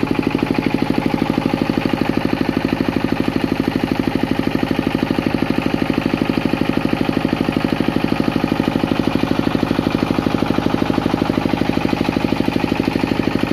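Tianli 28 hp diesel engine driving a 20 kVA generator, running steadily with an even, rapid thudding beat.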